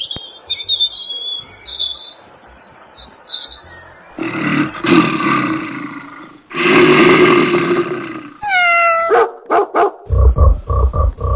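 A string of animal sound effects: high chirping first, then two long, loud roars, a few falling squealing calls, and a quick run of low barks near the end.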